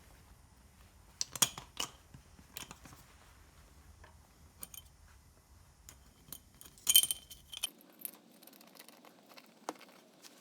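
Small metal bolts and hardware clinking against the steel hub halves of a trolley wheel as they are fitted together: a handful of separate sharp clinks, the loudest cluster with a brief metallic ring about seven seconds in.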